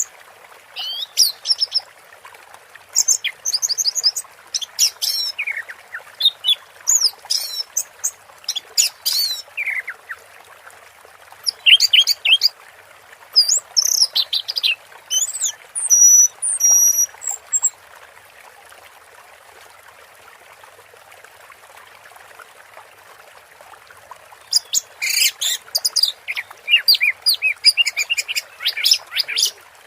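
Orange-headed thrush singing a fast, varied string of high chirps, whistles and trills, breaking off for about six seconds in the second half before starting again, over a faint steady hiss.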